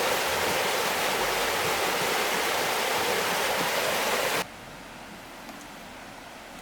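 Rushing water, a steady loud rush that drops suddenly to a quieter rush about four and a half seconds in.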